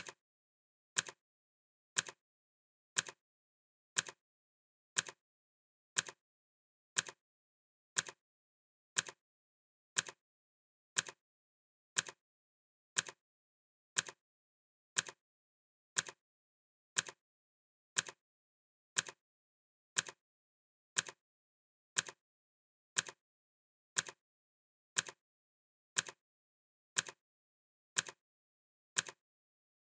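Clock ticking sound effect: one crisp tick each second, perfectly even, with silence between the ticks.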